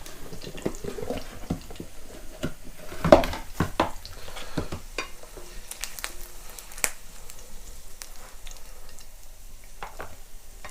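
Meat frying in a pan with a faint sizzle, while a utensil knocks, clinks and scrapes against the pan and plate as the pieces are moved; the loudest knock comes about three seconds in.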